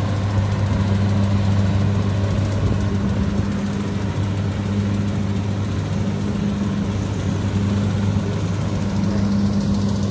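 Kubota combine harvester's diesel engine running steadily, a continuous low drone that holds an even pitch throughout.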